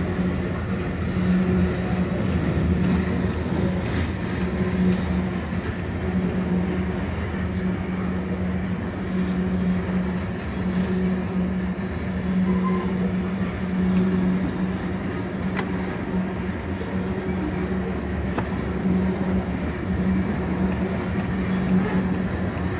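Freight train of loaded open hopper cars rolling steadily past at a grade crossing: a continuous rumble of wheels on rail, with a low hum that swells and fades.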